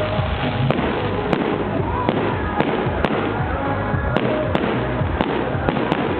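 Fireworks going off: a steady run of sharp bangs, a few each second at irregular intervals.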